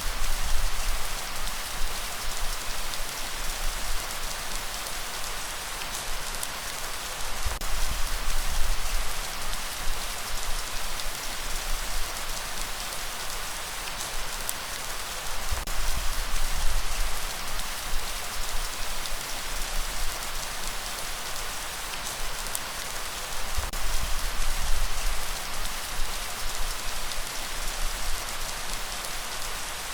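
Steady, dense rainfall hiss. Deep low rumbles swell and fade about every eight seconds underneath it.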